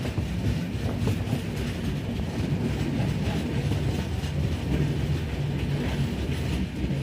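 Vaigai Superfast Express passenger train on the move, a steady low rumble of coaches on the track with faint scattered clicks.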